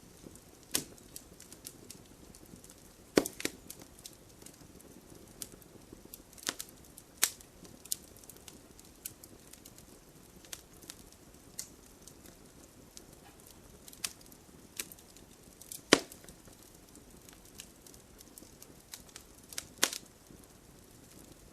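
Wood fire burning in a fireplace: logs crackling with irregular sharp pops over a soft steady flame hiss, the loudest pops about three seconds in and again near sixteen seconds.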